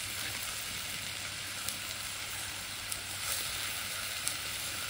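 Hand-chopped beef patties and onion slices sizzling in olive oil in a frying pan: a steady hiss with a few sharp pops of spattering fat.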